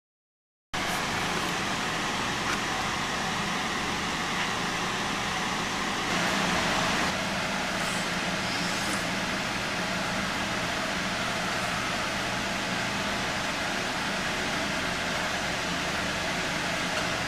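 Steady background noise with no distinct events, a little louder for about a second around six seconds in.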